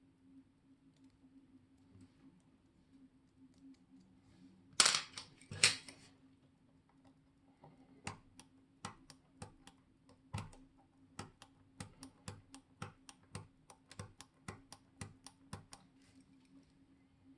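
Small sharp mechanical clicks from work on a wristwatch at the bench: two louder clatters about five seconds in, then a fairly regular run of light clicks, about two to three a second, over a faint steady hum.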